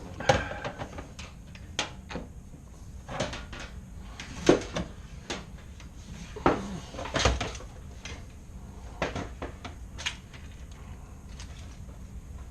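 Irregular knocks, clicks and clatter of handling dryer-vent cleaning gear, a dozen or so scattered taps, the loudest about four and a half and seven seconds in.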